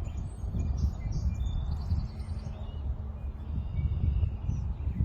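Wind buffeting the microphone in uneven low gusts, with small birds chirping and whistling faintly in the background.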